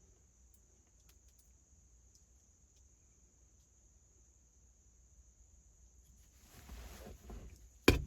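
Quiet hands-on work: some rustling about two-thirds of the way in, then a single sharp knock near the end, over a faint steady high-pitched whine.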